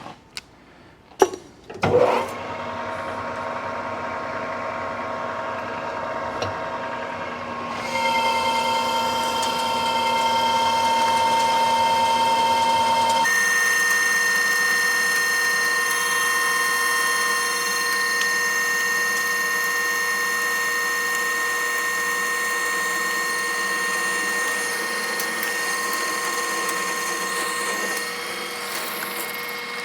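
A couple of sharp knocks, then a Precision Matthews metal lathe starts about two seconds in and runs steadily with a gear whine. Its tone changes in two sudden steps, once about a quarter of the way in and again near the middle.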